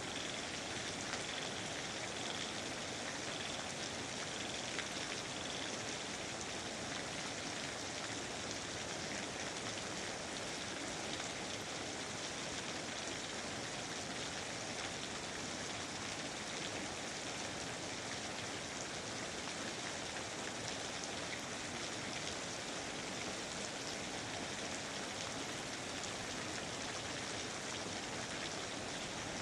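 Steady, even rain falling, with a faint repeated high chirp over the first few seconds.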